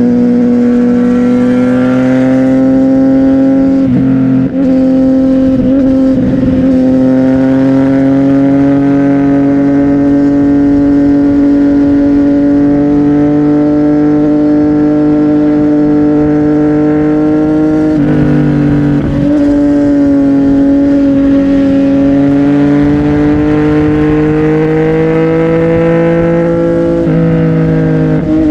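CFMOTO 675NK's inline-three engine through a titanium aftermarket exhaust, pulling steadily under load while riding. Its pitch climbs slowly, with brief breaks at gear changes about four, six and eighteen seconds in and again near the end.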